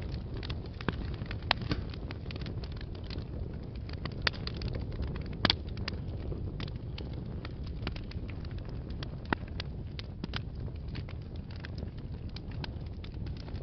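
Wood fire burning in a fireplace: a steady low roar with frequent irregular crackles and pops, the loudest pop about five and a half seconds in.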